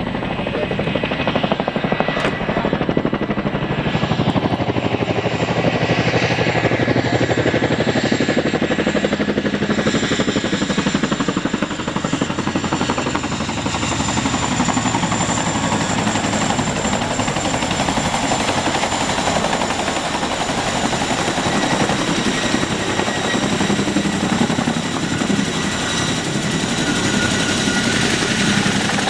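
Helicopter running close by: a fast, even rotor chop under a steady high whine.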